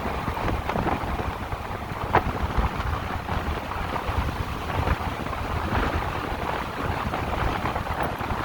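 Wind buffeting the microphone and road noise while riding an electric motorcycle along a road, with no engine note. A sharp click about two seconds in.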